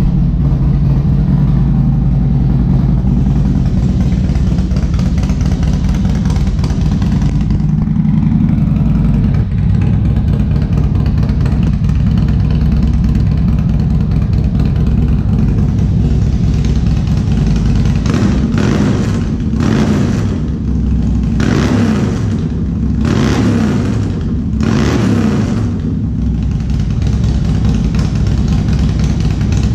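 2006 Harley-Davidson Road King's Twin Cam V-twin, built out to 95 cubic inches with bigger cams, running at idle, then given a series of quick throttle blips a little past halfway before settling back to idle.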